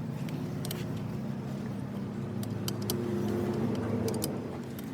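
An engine running steadily with a low, even hum, rising a little about three seconds in, with a few light metallic clicks over it.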